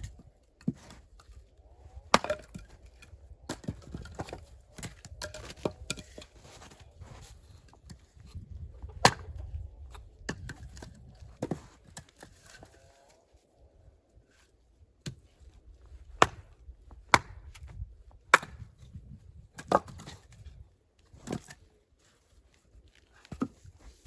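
Axe chopping firewood: sharp wooden blows at irregular intervals, about nine in all, some coming in quick succession and others several seconds apart.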